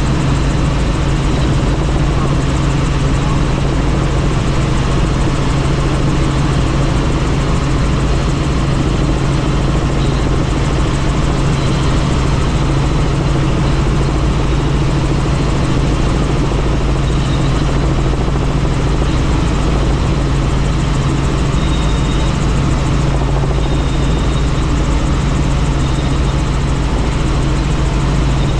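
Helicopter in flight: its engine and rotor make a loud, steady drone with a strong low hum.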